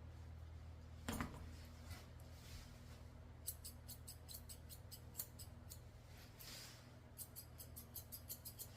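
Curved grooming scissors snipping dog hair in two runs of quick snips, the first starting a few seconds in and the second near the end, trimming the ends of a poodle's ear feathering.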